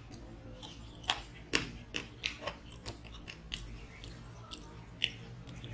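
A person chewing a mouthful of food with wet mouth smacks and clicks, irregular, about two a second.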